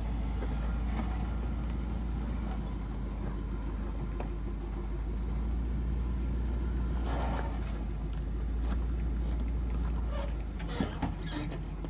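Vehicle engine running at low revs as it crawls over rocky ledges while towing a trailer, with a few short knocks and crunches about seven seconds in and again near the end.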